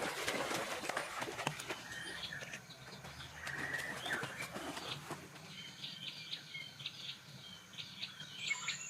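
Birds chirping and calling in forest, short high chirps repeating through the second half with a brief high whistle near the end. In the first few seconds a dense run of sharp clicks and rustling sounds over them.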